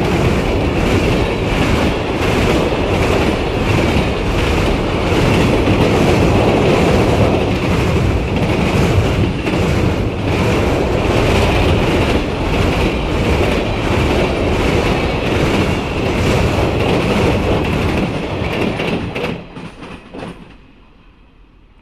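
A train passes on rails with a loud rumble, its wheels clacking over the rail joints in a regular rhythm over a steady high tone. The sound fades away quickly in the last few seconds.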